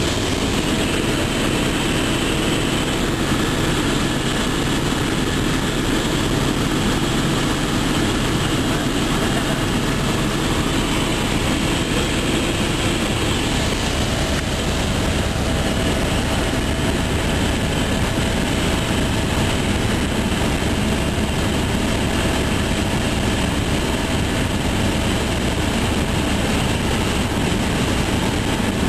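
Helicopter in flight, heard from inside the cabin: a steady, loud drone of engine and rotor with a low rumble and a few constant whining tones, unchanging throughout.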